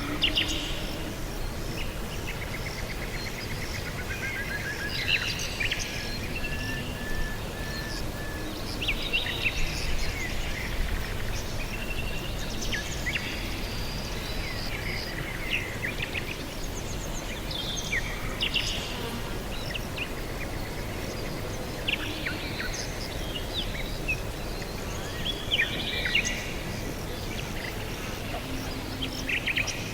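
Several wild birds chirping and calling throughout: short chirps, quick trills and a run of evenly repeated notes, over a steady low background rumble.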